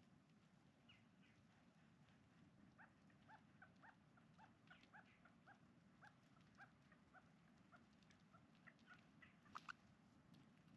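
Birds calling faintly: a run of short chirps, about two a second, with two louder chirps near the end.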